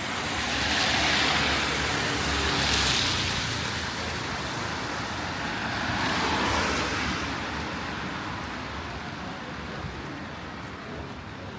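Two cars passing on a wet road, their tyres hissing on the rain-soaked asphalt, the first swelling over the first few seconds and the second about six seconds in, then fading.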